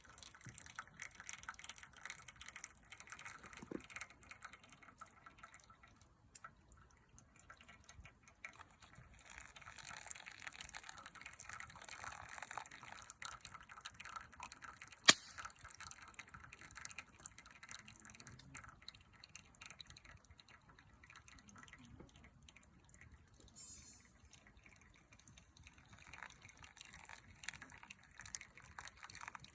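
Small wood fire crackling with faint irregular ticks and pops, and one sharp loud pop about halfway through.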